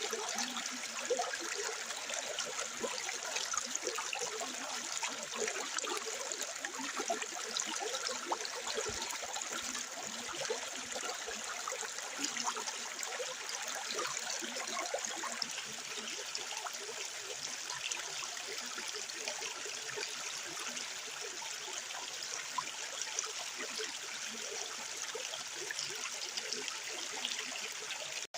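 Rainwater running down small cascades, a steady trickling and splashing.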